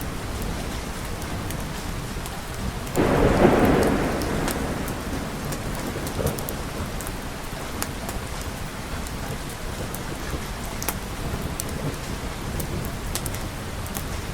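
Steady rain with a sudden thunderclap about three seconds in that rumbles away over the next second or so, and scattered sharp ticks throughout.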